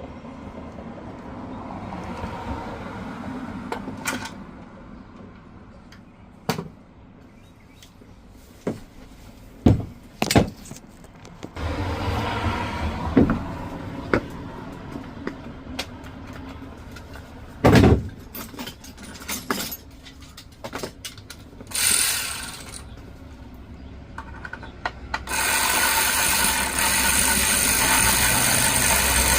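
Scattered clicks and knocks of tools and parts being handled, with a brief hiss about two-thirds in and a loud, steady rushing noise over the last few seconds.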